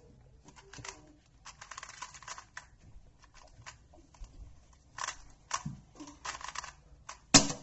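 Plastic 2x2 speed cube being turned quickly through a solve, its layers clicking and clacking in fast irregular runs, with one loud sharp click near the end.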